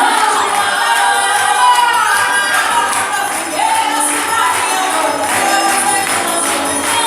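Voices singing together in a live performance, over jingling hand percussion keeping a steady beat.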